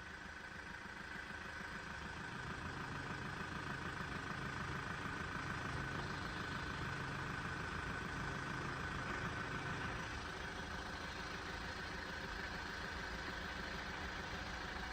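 Level crossing warning alarm sounding as a steady, slightly warbling high-pitched tone while the barriers come down. A low engine rumble swells underneath and fades about ten seconds in.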